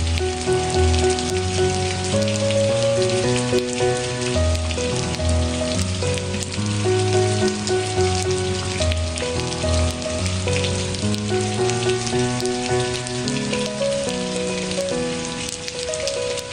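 Steady rain with fine drop ticks, under a gentle melody of sustained notes with a low bass line, the notes changing about every half second.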